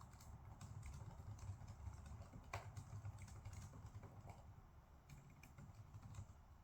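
Faint computer keyboard typing: irregular key clicks, a few louder strokes, over a steady low hum.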